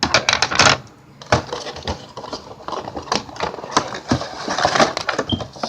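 Cardboard and plastic action-figure packaging being handled and pulled open, with irregular rustling, crinkling and clicking.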